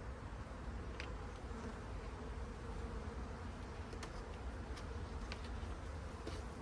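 Honeybees buzzing steadily around an opened hive, with a few faint clicks.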